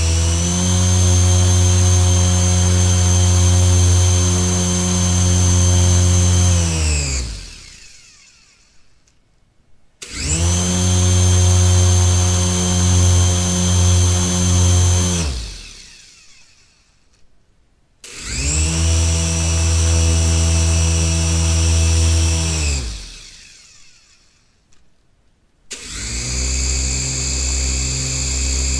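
Toy engine's small motor running with a steady, pitched hum. It is switched off and spins down with a falling pitch, then starts again abruptly after a pause of a couple of seconds. This happens three times, with a fourth start near the end.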